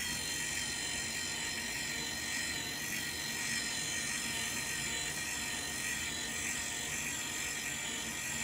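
A small electric motor running with a steady whirring hum and a thin high whine.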